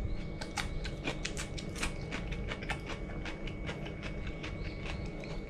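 A person chewing a slice of fresh raw cucumber: crisp, irregular crunches, several a second.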